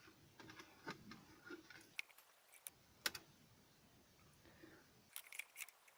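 Small plastic clicks and taps from handling the dehumidifier's control-panel parts as the mode button is refitted, sparse at first, with the sharpest click about three seconds in and a quick run of clicks near the end.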